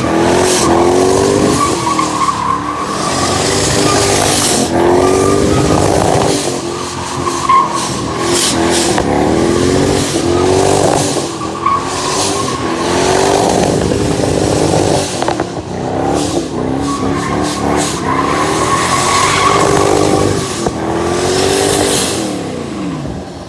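Twin-turbo Chevrolet 4.8-litre V8 in a Mustang doing a burnout: the engine revs up and down again and again over steady tyre squeal, fading away near the end.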